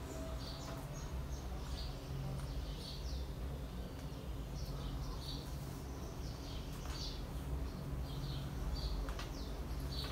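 Small birds chirping over and over, in short high notes, over a low steady hum. A few faint clicks come from the metal bag chain being handled.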